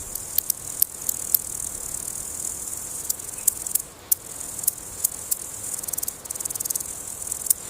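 Steady high-pitched insect chorus, with scattered sharp clicks and a fast run of ticks near the end.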